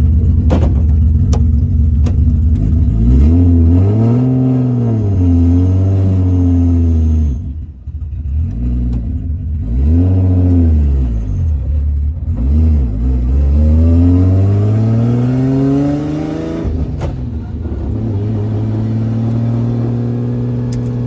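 Nissan S15 Silvia's engine heard from inside the cabin, revving up and falling back again and again as the car is drifted, with a sharp drop-off about seven seconds in. A single sharp clack sounds about three quarters of the way through, after which the engine holds a steadier pitch.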